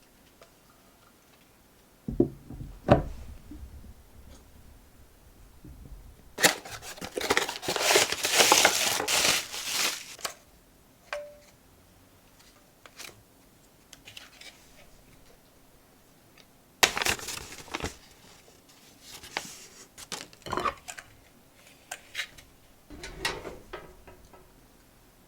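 Packaging being handled: crinkling and tearing, with a long loud stretch of rustling and a few knocks and clicks in between.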